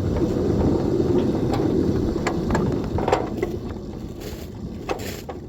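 Miniature 7¼-inch gauge locomotive running on the track, a steady low rumble with a few sharp clicks over it. It dies down over the last couple of seconds as the train slows.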